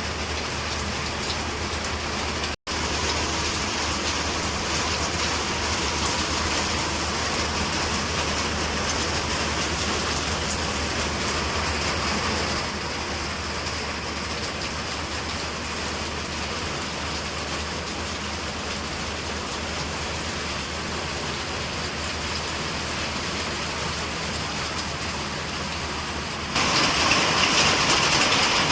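Steady rain falling, an even hiss of drops. It cuts out for a moment about two and a half seconds in and gets louder near the end.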